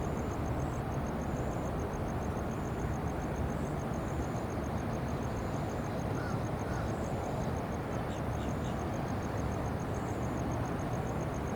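Steady low rumbling outdoor noise around an airport, unchanging in level, with a fast, even, high-pitched chirping pulse over it and a few faint short chirps about eight seconds in.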